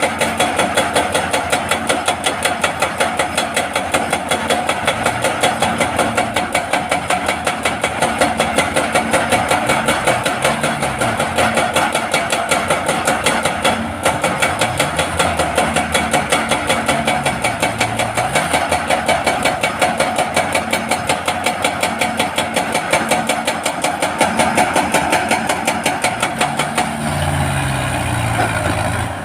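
Hydraulic breaker hammer on a Hitachi excavator pounding rock in a rapid, even stream of blows, over the excavator's diesel engine, which rises and falls in pitch now and then. The hammering stops near the end, leaving the engine running.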